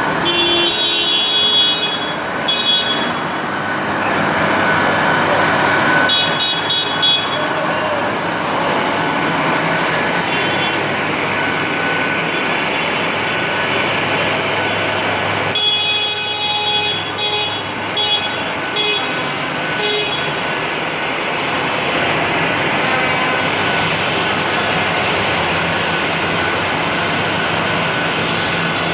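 Tractor engines running steadily as they pass, with horns tooting in short bursts about a second in, again around six seconds, and several times from about sixteen to twenty seconds.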